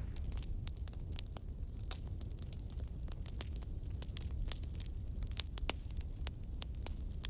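Wood fire burning, with many small, irregular crackles and pops over a low, steady rumble of the flames.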